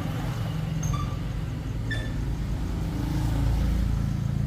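A vehicle engine running steadily close by, a little louder toward the end.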